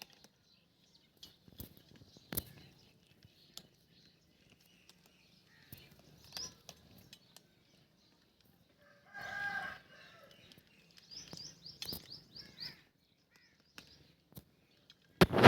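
Cats eating, with scattered small clicks and smacks of chewing. A short call comes about nine seconds in, quick high chirps follow a couple of seconds later, and a louder thump lands near the end.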